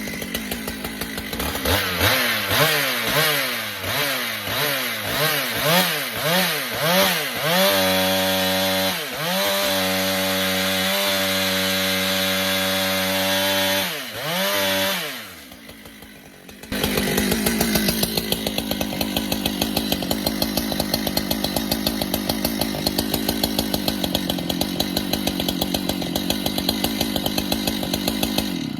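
Husqvarna 395 two-stroke chainsaw revved up and down several times, then held at high revs with two brief dips. About fifteen seconds in it drops away briefly, then runs steadily under load, bucking a log.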